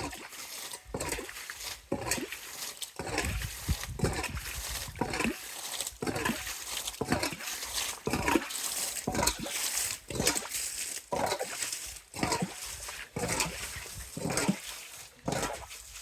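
Irregular splashing and sloshing in shallow water, several short strokes a second, typical of hands groping for stinging catfish under a stone.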